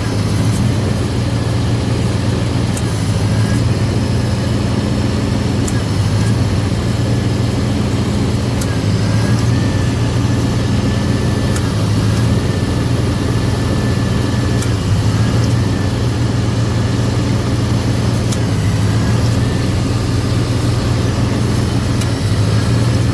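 Car engine idling steadily with the newly replaced A/C compressor engaged, drawing R134a refrigerant in through the low side during charging. A faint thin whine wavers above the engine through the middle of the stretch.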